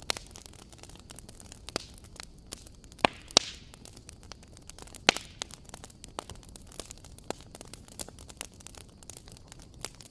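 Wood fire in a fireplace crackling: a steady scatter of small snaps over a soft hiss, with a few sharper pops about three and five seconds in.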